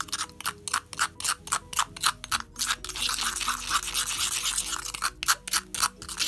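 Metal spoon stirring and scraping a wet paint paste against the inside of a stone mortar, in quick repeated strokes about five a second.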